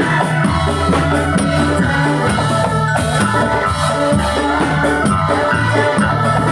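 Ndolalak dance music played instrumentally: drums and rattling percussion over held bass notes and a melody line, in a steady beat.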